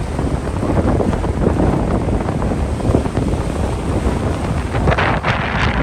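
Strong wind buffeting the microphone, a heavy, steady rumble, with a brighter rush of noise about five seconds in.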